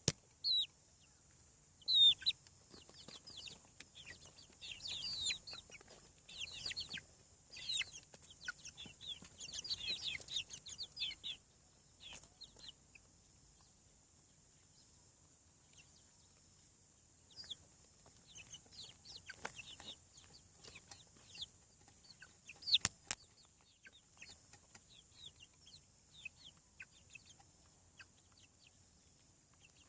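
Young chickens peeping and clucking: clusters of short, high chirps, with a quiet spell midway. A few sharp taps, the loudest about three quarters of the way through.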